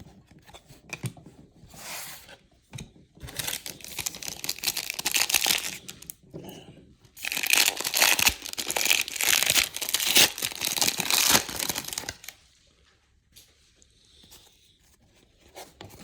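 Wrapper of a pack of baseball cards being torn open and crinkled by hand, in two stretches of rustling: a shorter one a few seconds in and a louder, longer one from about seven to twelve seconds.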